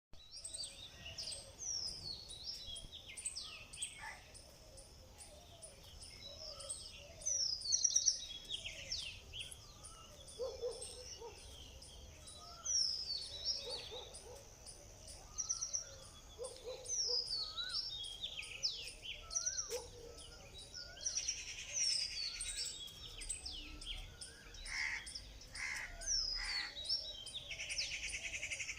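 Several birds chirping and singing, with repeated quick falling whistled notes and lower chirps, over a steady faint high ticking. Buzzy trills join in twice during the second half.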